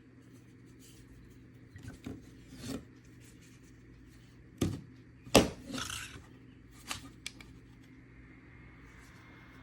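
Rubbing and handling noise with a few knocks, the loudest about five and a half seconds in, over a faint steady hum from the neck fan.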